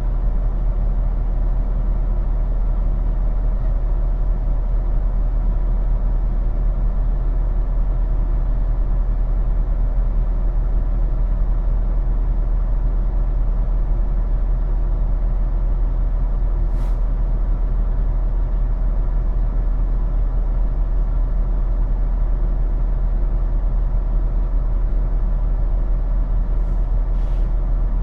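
Semi-truck diesel engine running steadily with a deep, even hum. Three short hisses cut through it, one about two-thirds of the way in and two close together near the end.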